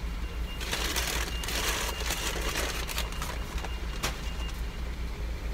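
Car engine idling, heard from inside the cabin, with a rushing noise that swells about half a second in and fades after about two seconds, and a sharp click about four seconds in.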